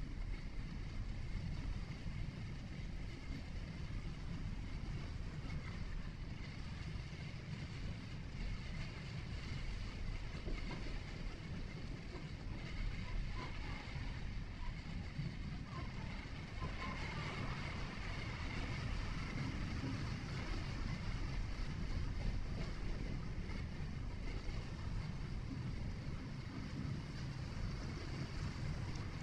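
A vehicle driving, heard from inside: a steady, low rumble of engine and tyre road noise.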